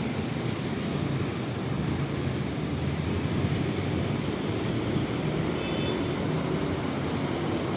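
Road traffic with heavy vehicles such as trucks and buses passing: a steady low rumble, swelling briefly about four seconds in, with a few faint short high squeaks.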